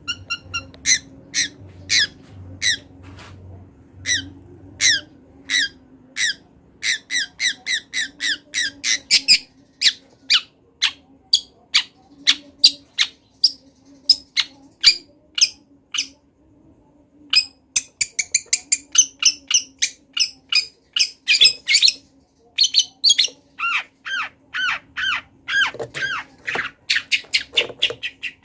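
Long-tailed shrike (cendet) singing a loud, varied song full of mimicked calls. Short sharp notes come at first one or two a second, then several a second. After a brief pause a little past halfway, fast runs follow, then notes that curve downward.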